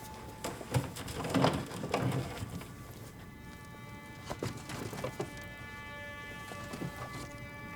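A few soft knocks and clatters of objects being handled, the busiest stretch about a second in, over steady held tones of a quiet music drone that grows clearer in the second half.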